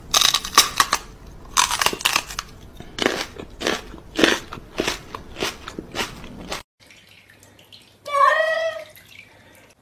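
Loud, irregular crunching of hard food being chewed, about two crunches a second, which stops abruptly. After a short gap a cat meows once, a wavering call about a second long.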